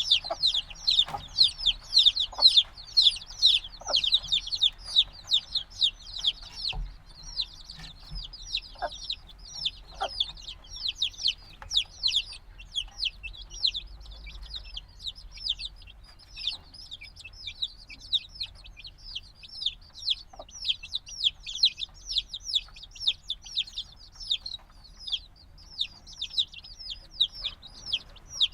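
A brood of newly hatched chicks peeping continuously, many high, downward-sliding cheeps overlapping several times a second. They are chicks only a few days old, still wanting the warmth of the mother hen.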